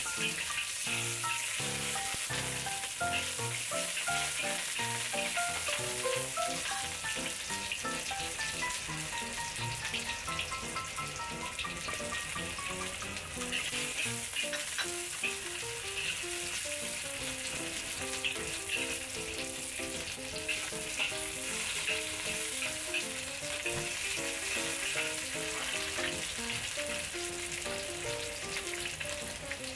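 Ginger slices and shallots sizzling steadily in hot oil in a wok, stirred with a metal spatula that scrapes and clicks against the wok.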